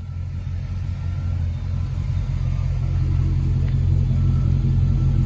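Car engine idling with a steady, deep low rumble that grows gradually louder.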